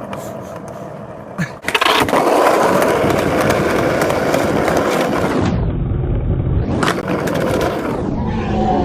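Skateboard wheels rolling on a concrete sidewalk. A couple of sharp clacks come about a second and a half in, then the rolling grows loud and steady. Around the six-second mark it turns muffled and lower for a stretch.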